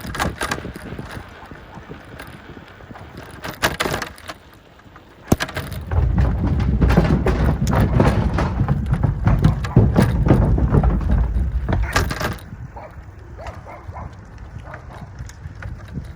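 Riding a bicycle down a trail: wind buffeting the microphone, with scattered knocks and rattles from the bike going over the ground. The wind rumble is loudest from about six to twelve seconds in.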